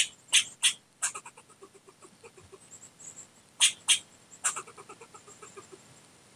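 Fox squirrel barking: sharp calls, three in quick succession at the start, two more about three and a half seconds in and another a second later, with soft rapid chucking between them. This is the squirrel's alarm call.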